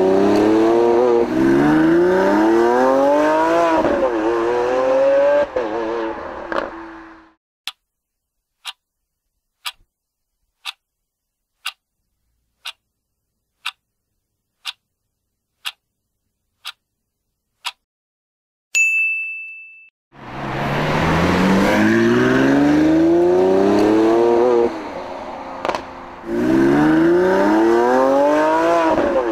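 Lamborghini Aventador SVJ's V12 engine accelerating hard through several gears, its pitch climbing and dropping back at each upshift. It stops, a countdown clock ticks about once a second ten times, a single ding sounds, and the same V12 acceleration comes back about two-thirds of the way in.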